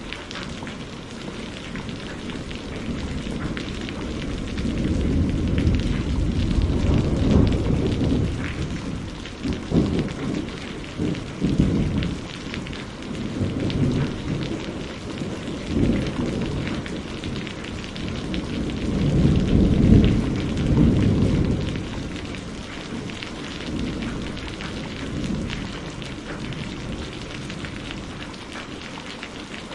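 Steady rain falling, with low rolls of thunder swelling and fading, loudest about seven and twenty seconds in.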